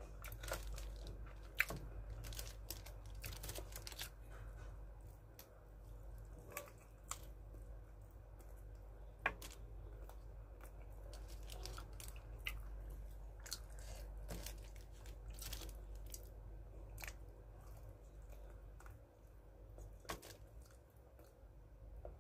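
Close-up chewing and crunching of KFC fried chicken, with many short, irregular crackles from the crispy breading and mouth smacks, faint throughout.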